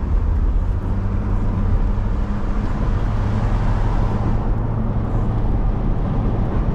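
Car being driven, with a steady low rumble of engine and road noise and a constant low hum.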